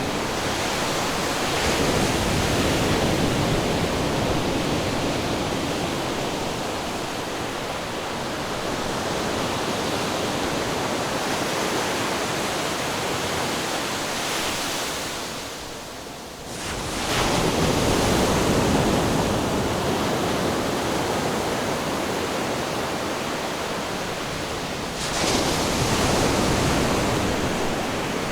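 Ocean surf: waves break and wash in as a continuous rushing noise. It swells up three times, about two seconds in, just past the middle and near the end, with a brief lull just before the second swell.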